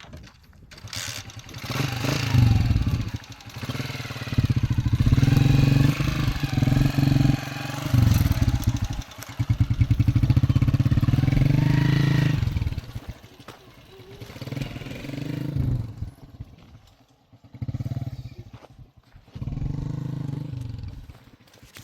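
Motorcycle engine running, loud for several seconds, then dropping and picking up again in a few shorter surges, as when revving up and easing off.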